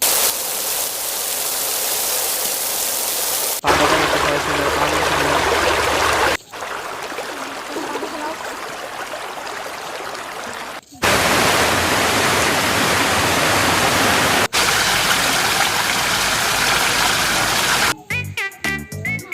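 Steady rushing noise in five segments that switch abruptly every three to four seconds; some segments carry a low hum underneath.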